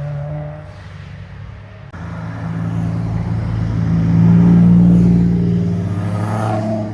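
Sports cars passing on a winding mountain road. One car's engine fades away at first. About two seconds in, another comes up under acceleration, is loudest midway and revs higher as it passes.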